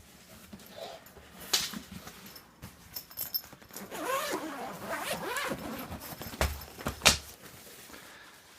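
Zipper on a drone carry rucksack being pulled open, with rustling and a few sharp knocks from handling the bag and its contents.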